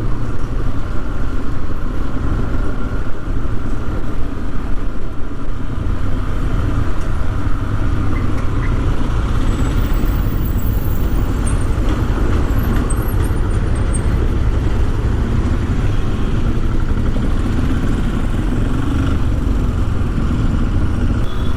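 Motorcycle riding through city traffic: steady wind rush on the microphone over the running engine and surrounding traffic.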